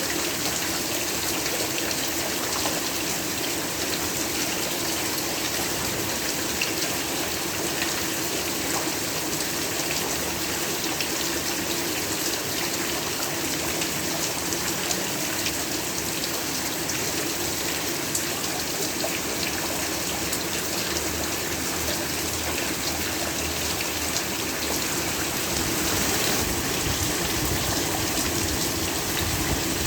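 Steady heavy rainfall, an even hiss of many fine drop patters, growing slightly louder near the end.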